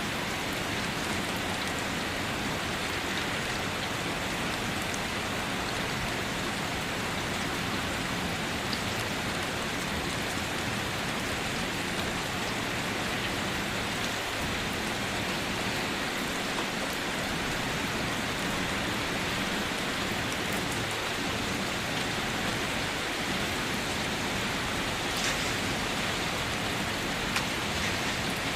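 Steady rain falling and pattering on surfaces, with a few individual drops ticking now and then.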